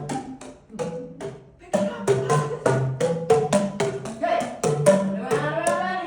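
Boomwhackers, tuned plastic tubes, struck one after another around a circle: a quick string of short, hollow pitched booms at different pitches, sparser in the first second and then faster, with voices coming in near the end.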